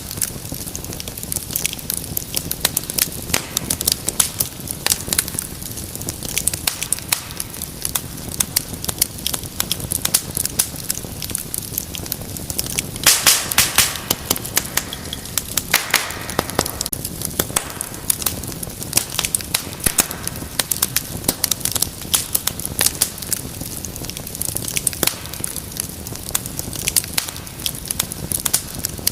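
Wood fire crackling in a fireplace: a steady stream of sharp pops and snaps over a low, soft rushing of the flames, with a burst of louder pops about halfway through.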